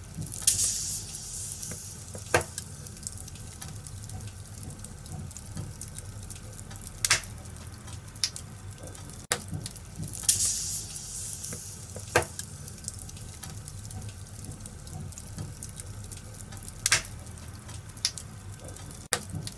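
Wood fire burning in a fireplace, crackling steadily under a low rumble, with sharp pops every few seconds and brief bursts of hissing about half a second in and again about halfway through.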